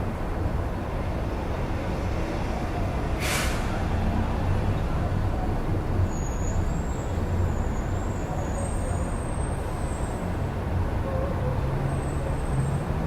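Steady street traffic rumble heard through an open window, with a short sharp hiss a little over three seconds in, typical of a bus or truck air brake releasing. Faint thin high squeals come in from about six seconds.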